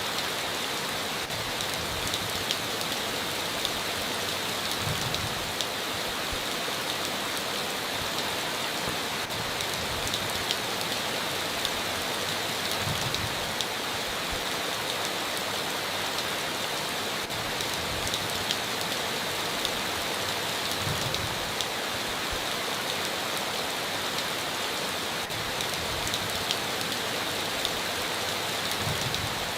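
Steady heavy rain on a tin roof: an even, dense hiss with scattered sharp drop taps.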